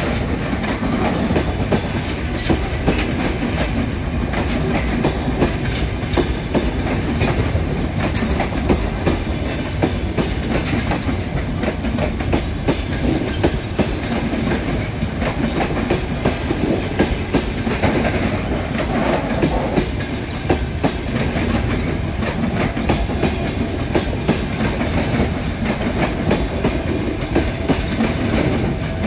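Passenger coaches of a departing train rolling past, their wheels clicking steadily over rail joints under a continuous rumble.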